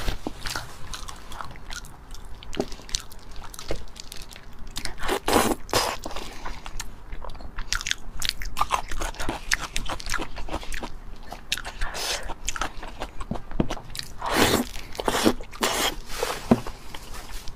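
Close-miked chewing and biting on saucy pig's tail, with many small wet mouth clicks and a few louder, longer mouth noises about five and fifteen seconds in.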